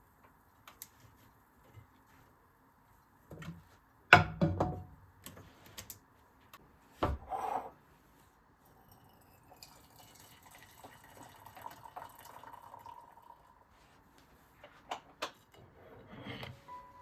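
Kitchen handling sounds: scattered clicks and a few sharp knocks of dishes or utensils, two of them loud, about four and seven seconds in. Then a faint stretch of water running from a tap for a few seconds, followed by more clicks.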